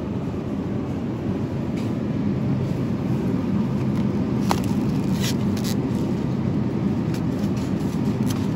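Steady supermarket background noise, a low hum and rumble of the shop's machinery and shoppers, with a few short clicks and knocks about halfway through.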